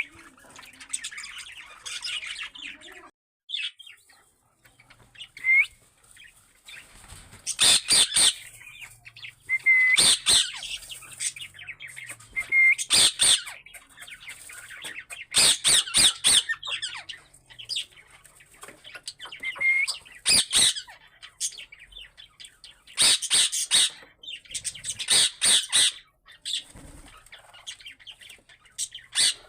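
Parrots squawking in repeated harsh bursts every few seconds, with short rising whistles in between.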